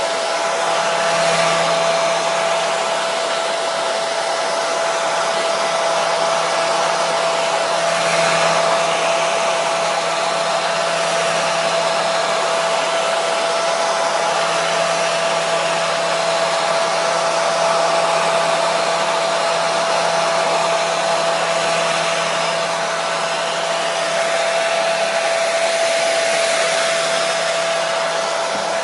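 Hair dryer running steadily on one setting: a constant rush of blown air with a steady whine from its motor and fan.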